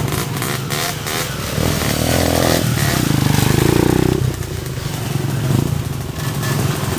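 Motocross dirt bike engine running and revving, its pitch climbing between about two and four seconds in, then dropping back.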